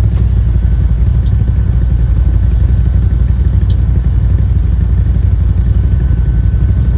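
Vehicle engine running at a steady pitch with a deep rumble, and a faint steady whine above it.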